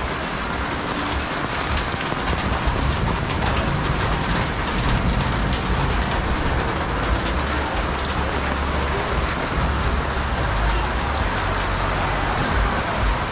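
Heavy rain falling steadily on the surfaces of an alley, with a low rumble underneath that swells for several seconds in the middle.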